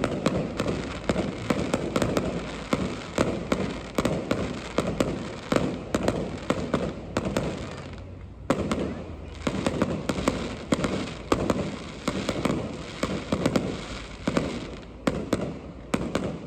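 Fireworks display going off: rapid bangs and crackles, many a second, with a short lull about eight seconds in and another near fifteen seconds.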